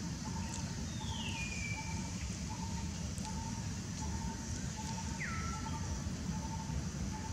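Outdoor ambience: a bird repeats a short, hollow note about twice a second over a steady high insect drone. Two falling whistled calls come through, one about a second in and a lower one just past five seconds.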